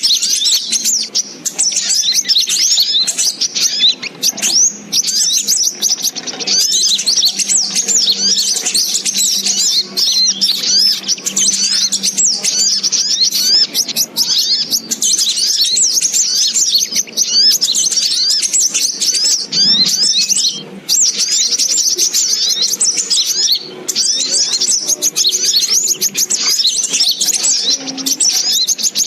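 Dense, rapid high-pitched chirping and trilling of sogok ontong (little spiderhunter) calls, the kind of looped bird call played as a lure to draw in wild birds. The calls run on with only brief gaps.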